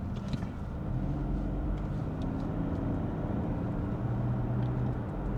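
A vehicle's engine running steadily, a low hum whose pitch drifts slightly.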